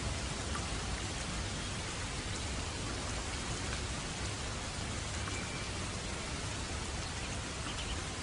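Steady rainfall, an even hiss with a few faint drop ticks.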